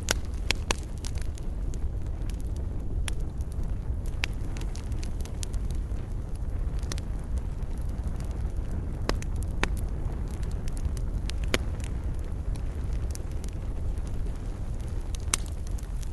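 Wood campfire burning: a steady low rumble of flames, with sharp wood crackles and pops at irregular intervals.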